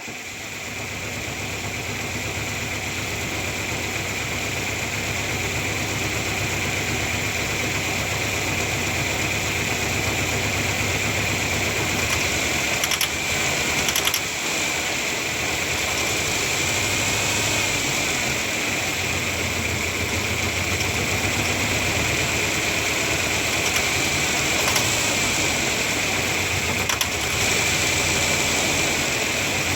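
1997 Ford Ranger's four-cylinder engine idling roughly, a rhythmic low running that wavers now and then, with a steady high-pitched whine over it and a few brief clicks around the middle and later on.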